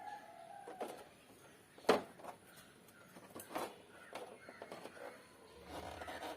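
A faint bird call tails off at the start, then a few scattered knocks and clicks, the sharpest about two seconds in.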